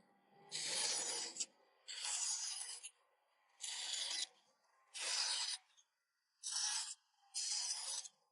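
A hand tool working a wooden board in six separate strokes, each about half a second to a second long, with short gaps between them.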